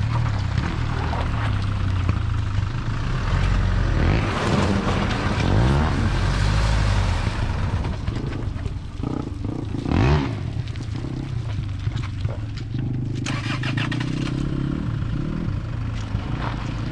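Land Rover Freelander 2's 2.2 diesel engine revving up and down as the car drives through mud on street tyres, with DSC switched off. The revs rise sharply about ten seconds in.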